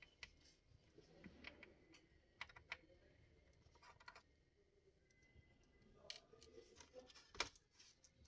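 Faint, scattered clicks and taps of a screwdriver and plastic laptop casing being handled while screws are undone on a Dell laptop, with one sharper click about seven seconds in.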